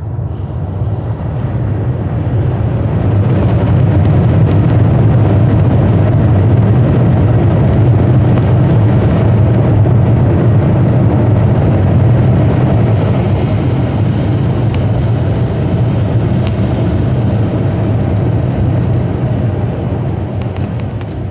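The Airbus A350-941's two Rolls-Royce Trent XWB-84 turbofans in reverse thrust during the landing rollout, heard from inside the cabin: a loud, deep rumble that swells over the first few seconds, holds, then slowly dies away as the aircraft slows.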